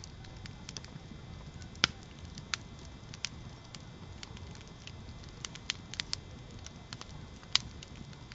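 Campfire crackling: irregular sharp pops and snaps of burning wood, a few louder ones about two seconds in and near the end, over a low steady rush of the flames.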